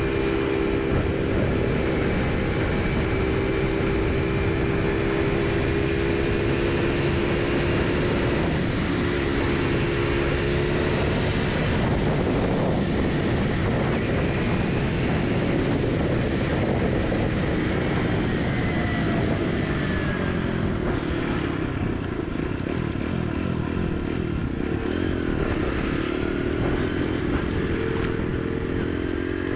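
Motorcycle engine running while riding, its note shifting up and down with speed, under heavy wind noise on the microphone.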